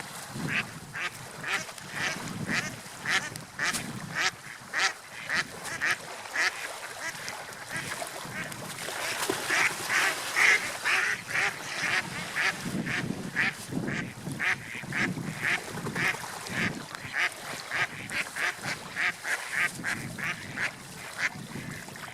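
Seagulls calling over and over, short calls at about two a second that bunch up thickest about halfway through, over a low rumble of sea surf.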